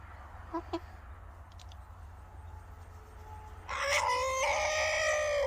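Rooster crowing once: a single long call that starts a little past halfway and is still going at the end. Two faint short notes come about half a second in.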